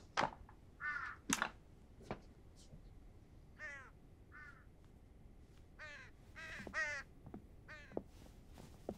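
Birds calling outdoors: a series of short calls, singly and in quick pairs, every second or two. A few sharp knocks fall among them.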